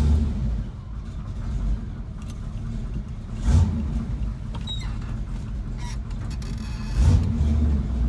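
Fuel-injected Chevy 454 big-block V8 in a square-body pickup, just fired up and running at idle. It is blipped briefly twice, about three and a half and seven seconds in.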